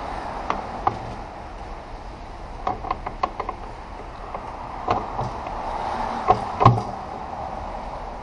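Scattered short knocks and clinks of metal transmission parts being handled and set down, loudest about six and a half seconds in, over a steady background noise.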